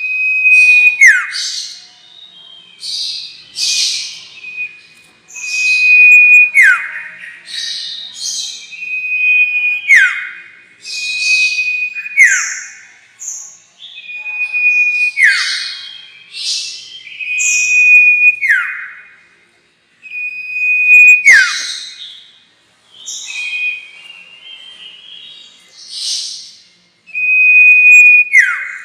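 Sirtu songbird calling as a bird-trapping lure, repeated about every two to three seconds: each phrase a held high whistle that drops in a quick downward sweep, with thin high chattering notes around it.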